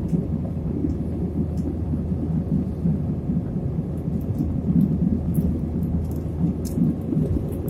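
Steady low roar of an airliner's engines and rushing air heard inside the cabin, with a few faint high ticks.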